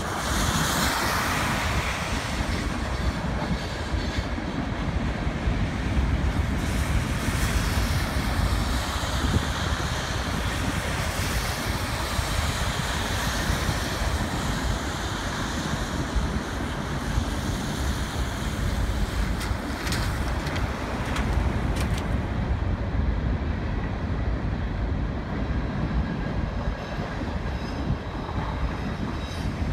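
CN freight train's cars rolling past on the rails: a steady rumble with wheel clatter, and a few sharp clicks about two-thirds of the way through.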